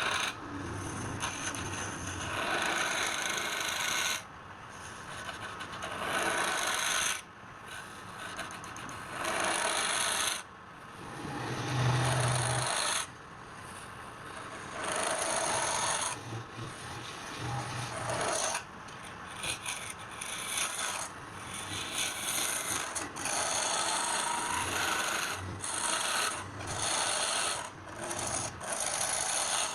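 Wood being rasped or abraded in repeated strokes, each lasting one to three seconds, with short breaks between them.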